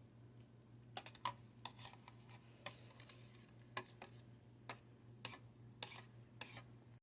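A spoon stirring hot chocolate in a cup, clinking lightly against the side in faint, irregular ticks every half second or so, over a steady low hum.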